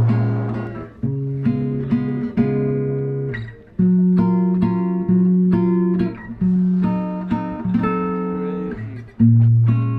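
Background music: acoustic guitar strumming chords, each ringing out and fading before the next.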